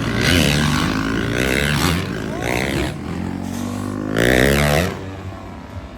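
Freestyle motocross dirt bikes revving hard in several rising surges about a second apart as the riders hit the jump ramps. The loudest rev comes near the end, and the sound drops away about five seconds in.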